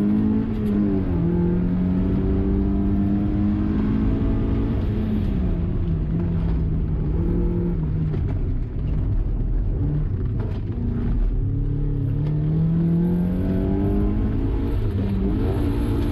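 Mazda MX-5's four-cylinder engine heard from inside the cabin under hard driving, its revs climbing and dropping several times as the driver accelerates, brakes and shifts, lowest around the middle.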